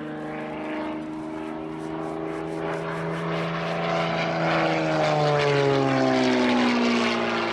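Propeller-driven aerobatic airplane flying past. Its engine note grows louder, then drops in pitch about five seconds in as the plane goes by.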